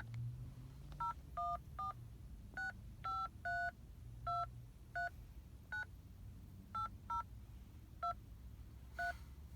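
Phone keypad touch tones (DTMF): a string of about thirteen short two-tone beeps at uneven intervals as a card number is keyed in for an automated phone service.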